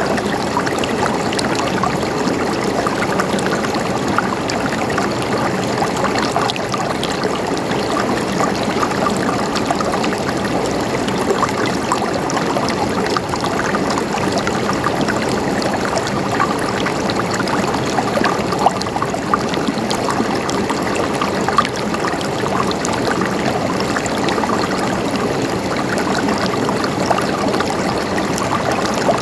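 Stream water flowing and gurgling steadily over stones, a continuous rushing with small splashes scattered through it.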